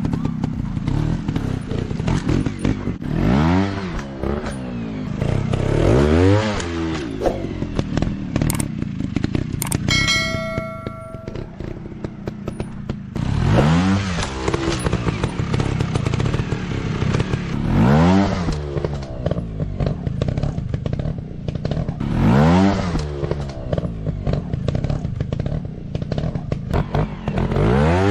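Dirt-bike engine revving up and dropping back again and again, about six revs each a few seconds apart, with clattering in between. A short beeping tone sounds about ten seconds in.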